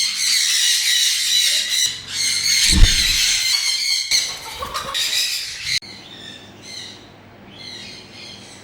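Many parrots screeching and squawking at once in a dense, harsh chorus that drops suddenly to fainter calls a little under six seconds in. A short low thump sounds about three seconds in.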